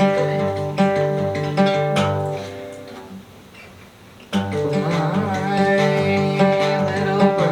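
Acoustic guitar strumming a repeating chord progression over low bass notes. The music dies away about two and a half seconds in, then starts up again a little after four seconds.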